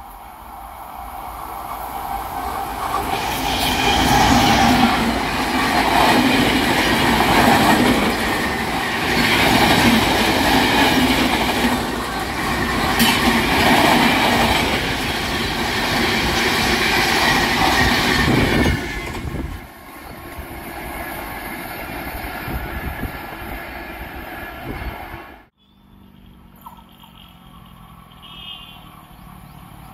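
Express passenger train hauled by an electric locomotive passing at speed, wheels clattering over rail joints in a regular pulsing rhythm. The sound builds over the first few seconds, stays loud for about fifteen seconds, then falls away sharply, with a lower steady rumble before a brief break near the end.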